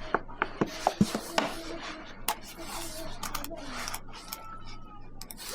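Cooking clatter: a quick run of sharp clinks and knocks in the first second and a half, then scraping and rubbing, as of pots and utensils being handled.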